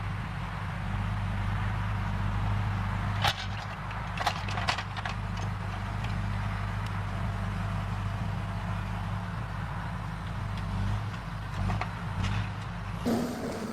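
Diesel engine of a Timberjack 810D forwarder running steadily under load, with a few sharp clunks about three to five seconds in and again near the end. The engine sound cuts off abruptly shortly before the end.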